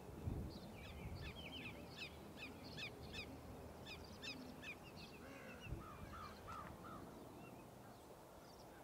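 Faint bird calls: a quick run of short, high, falling chirps, then a few lower calls about halfway through, over a low rumble.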